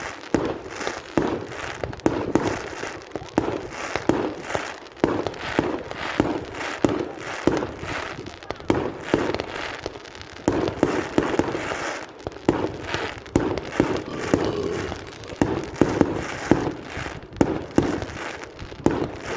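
Fireworks display going off in a rapid, irregular barrage of bangs and crackles, several a second.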